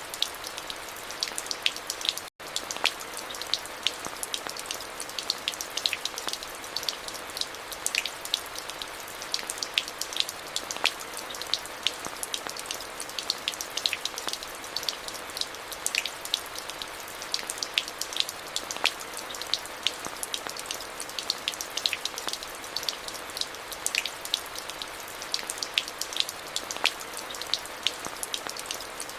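Steady rain: an even hiss dotted with many sharp, irregular drop ticks on hard surfaces. The sound cuts out for a split second a little over two seconds in.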